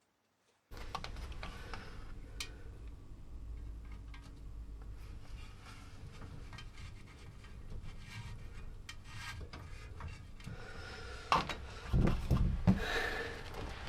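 Rubbing and scraping handling noise with scattered clicks over a low steady rumble, starting abruptly. A few louder knocks come near the end.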